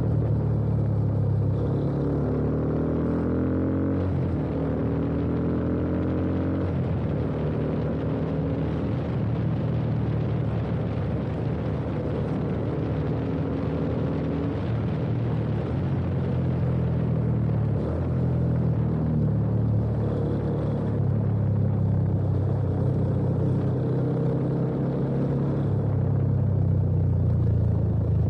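Yamaha FZ25's single-cylinder engine running through an aftermarket full-system exhaust with an Akrapovič-replica slip-on, heard from the rider's position on the move. In the first few seconds the pitch rises several times as the bike accelerates, then it settles into a steadier cruise.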